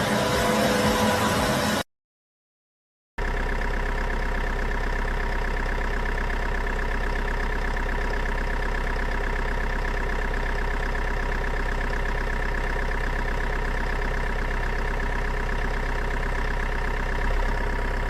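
An engine running steadily at an even speed, after a second or so of dead silence near the start.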